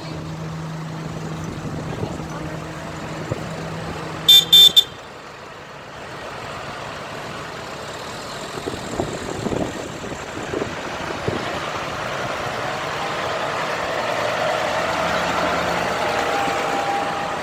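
Vehicles in a road procession: a steady low engine hum, then three short, loud, high-pitched horn toots about four seconds in, after which vehicle engine and road noise grow steadily louder as a truck approaches.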